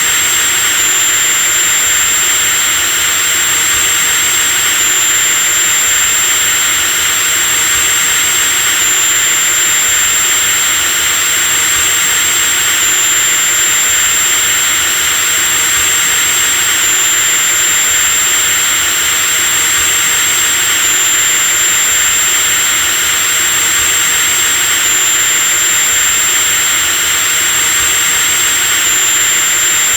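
Electric drill motor running continuously at full speed: a steady high whine over a constant whirring hiss, the whine's pitch shifting slightly about every four seconds.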